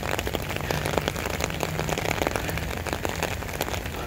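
Steady rain falling, with many separate drops hitting close by in a dense patter.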